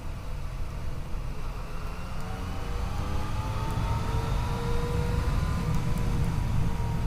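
Yamaha FJ-09's inline-three engine pulling the bike along. Its pitch rises from about two seconds in as the bike accelerates, then holds steady. Heavy wind rumble on the microphone runs underneath.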